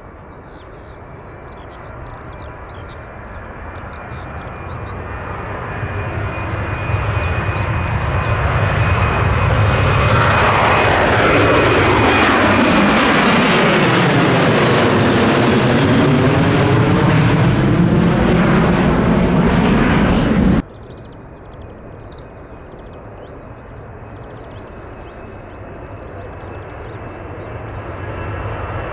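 Boeing 737-800's CFM56 jet engines at take-off power, growing louder as the aircraft rolls past close by, with a sweeping whoosh as it passes. About two-thirds in the sound cuts off sharply to a second 737-800 departing, its engine noise building again toward the end.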